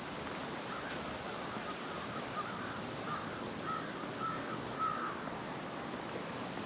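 A bird calling in a run of short calls from about a second in until about five seconds in, over a steady outdoor background hiss.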